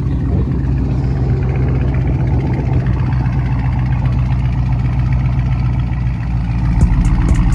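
A car engine running steadily at idle. Music with a beat comes in near the end.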